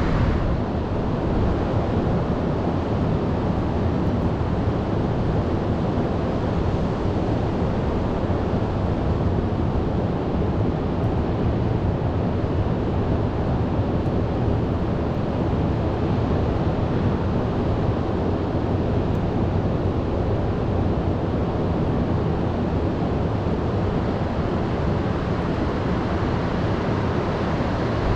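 Heavy storm surf with wind blowing over the microphone: a steady rushing noise, heaviest in the low end, with no single wave standing out.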